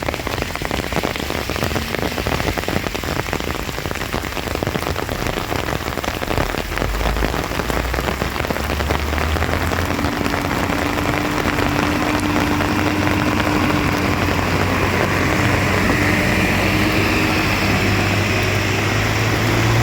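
Rain falling hard and steadily on a surface. From about halfway through, a vehicle engine running low underneath the rain grows louder toward the end.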